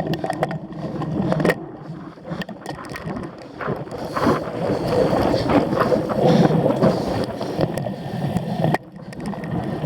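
Cyclocross bike ridden hard over rough ground: a continuous rumble from the tyres, with frequent clicks and knocks from the bike rattling over bumps.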